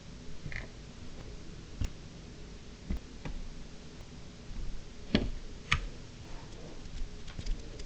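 A few separate light clicks and taps, about five spread over the seconds, the clearest two close together about five seconds in.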